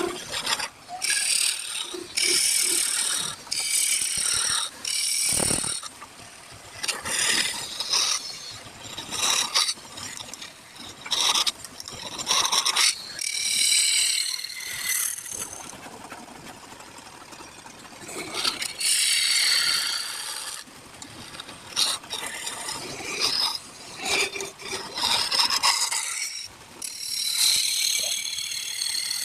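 Wood being turned on a lathe: a turning tool cutting the spinning workpiece in repeated short passes, each a scraping burst lasting about a second, with brief gaps between cuts.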